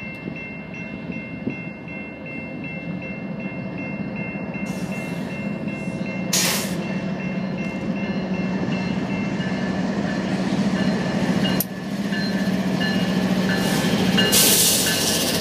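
BNSF diesel freight locomotives approaching and passing a grade crossing, their engine drone growing steadily louder, while the crossing bell rings in a rapid even pattern. Short bursts of hiss come about six seconds in and again near the end as the lead units go by.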